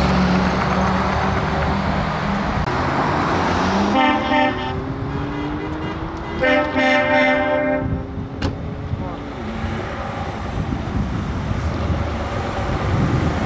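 Heavy trucks' diesel engines running, one rising in pitch as it pulls away, with truck air horns sounding over them: a short blast about four seconds in and a longer blast about six and a half seconds in.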